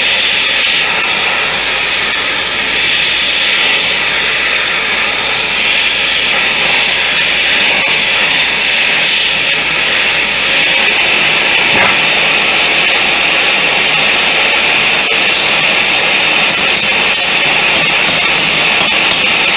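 Forge running with a loud, steady rushing hiss while steel rod is heated for bending.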